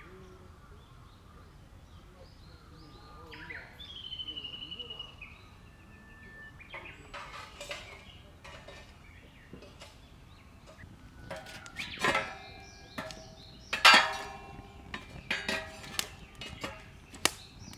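Metal cookware and utensils being handled: a series of clinks and knocks with a short ring, growing louder and busier in the second half, the loudest about twelve and fourteen seconds in. Earlier, a bird calls with a short trill.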